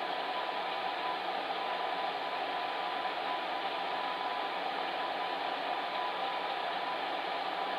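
Electric fan heater running: a steady, even blowing hiss with a faint constant hum.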